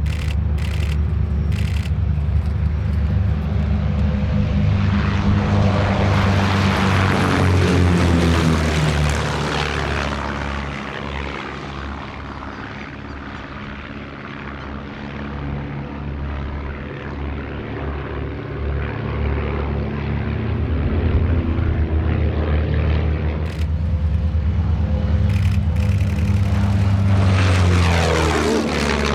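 Propeller engines of aerobatic display planes, loud as they pass, their pitch sliding down with each pass: once about a quarter of the way in and again near the end, with a quieter stretch between.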